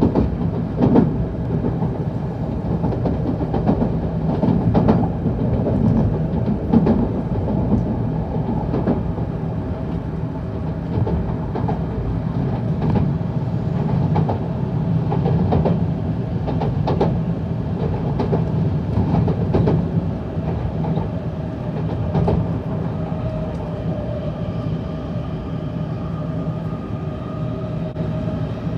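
Tokaido Shinkansen train running on the line, heard from inside the passenger car: a steady low rumble with irregular clacks from the wheels over the track.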